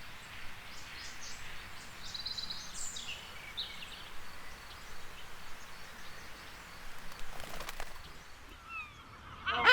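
Outdoor ambience, a steady hiss of background noise, with faint scattered bird chirps a couple of seconds in and a few quick calls falling in pitch near the end.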